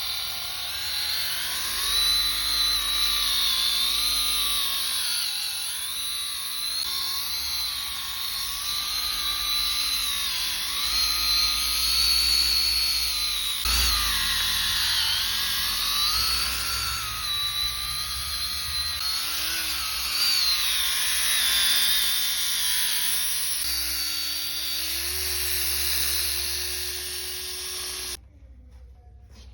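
Electric polishing machine running on a motorcycle fairing, its whine wavering up and down in pitch as the load on the pad changes. It switches off abruptly near the end.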